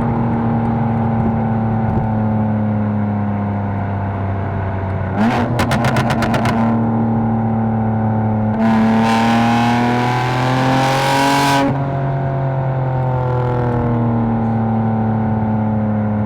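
Catless, 750 hp BMW M4's twin-turbo inline-six engine and exhaust while driving. The note slowly drops as the car coasts, a quick rattle of pops comes about five seconds in, then a hard pull of about three seconds with the pitch climbing, and after the lift-off the note settles back down.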